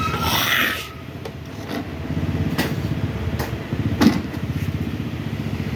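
An engine running steadily with an even low pulse. A short hiss sounds at the start, and a few sharp metallic clicks come later, the loudest about four seconds in.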